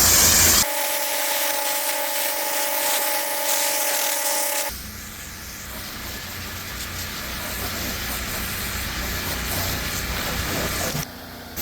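Pressure-washing equipment running: a steady spray hiss and machine noise, changing suddenly about half a second in to a steady whine with a hiss, then about five seconds in to a quieter, even rushing noise with a low rumble.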